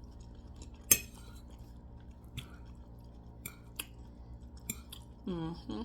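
A person eating: a few sharp clinks of cutlery on a plate, the loudest about a second in, with quieter chewing between them. A brief voice comes near the end.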